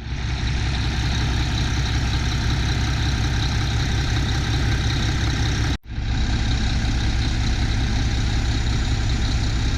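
Mack MP7 inline-six diesel engine idling steadily. The sound cuts out for a moment about six seconds in, then carries on the same.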